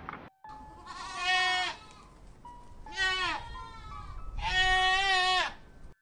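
A bleating animal: three long, wavering bleats, the middle one shorter.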